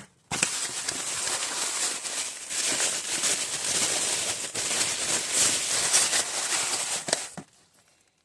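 Packaging crinkling and rustling as it is handled and unwrapped by hand, a continuous crackle for about seven seconds that then stops.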